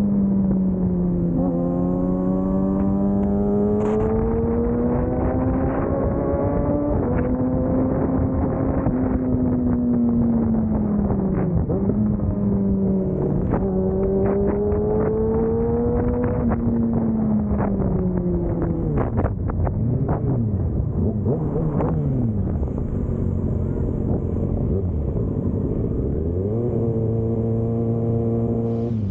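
Motorcycle engine heard from on board while riding, its pitch rising and falling slowly as the rider opens and closes the throttle. About two-thirds of the way through the pitch swings up and down quickly several times, and near the end it settles to a steady note.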